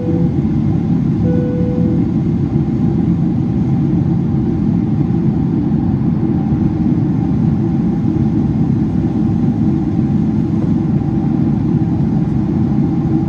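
Steady roar of cabin noise inside a Boeing 767-400ER in flight: airflow and engine drone. Two short beeps about a second apart near the start.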